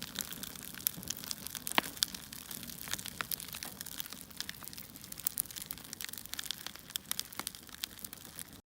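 Crackling of a log fire: irregular pops and snaps over a soft hiss, cutting off abruptly near the end.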